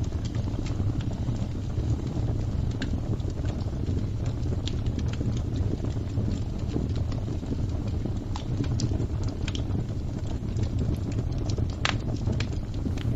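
Fire crackling: a steady low rumble with scattered sharp pops and snaps, one louder pop near the end.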